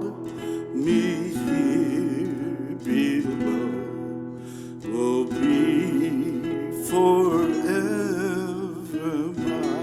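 A hymn sung with vibrato, slow and held, over acoustic guitar accompaniment.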